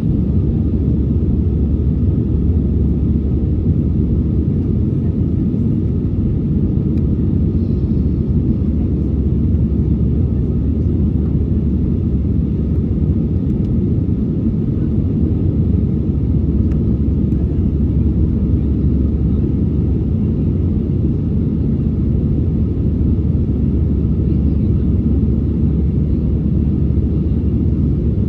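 Steady low rumble inside the cabin of an Airbus A320 climbing after takeoff: engine and airflow noise heard from a window seat near the wing.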